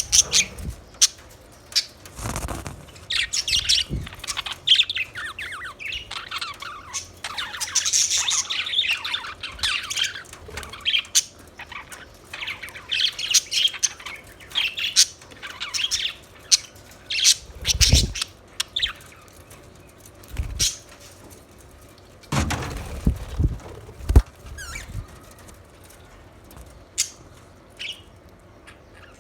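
Budgerigars chirping and warbling in rapid high chatter, busiest in the first two-thirds and sparser near the end, with a few low thumps among the calls.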